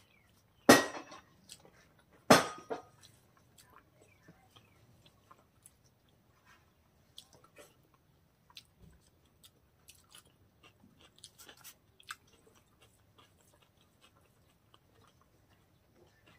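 Close-miked chewing of pork and rice, with two loud crunches in the first few seconds followed by soft wet mouth clicks and smacks.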